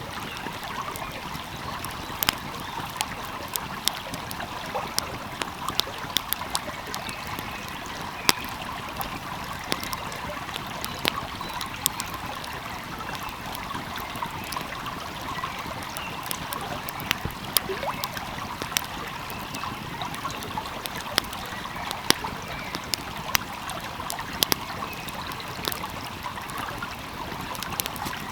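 Wood fire crackling, with irregular sharp pops and snaps, over the steady rushing of a flowing stream.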